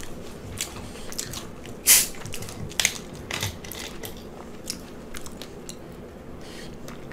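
Close-miked chewing and mouth sounds: soft wet clicks and smacks, with one louder smack about two seconds in.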